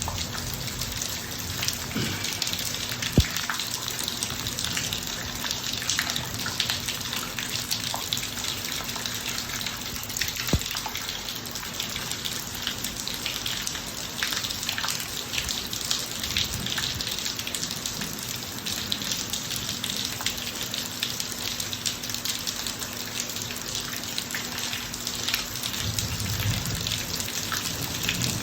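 Steady rain falling on a driveway, many drops ticking, with a couple of sharper drips. A low rumble builds near the end.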